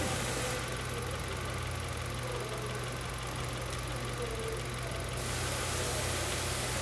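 Four-cylinder engine of a 2007 Mazda 3 idling with a misfire on cylinder 1, caused by a faulty ignition coil. A faint high hiss sits over the engine from about half a second in until about five seconds.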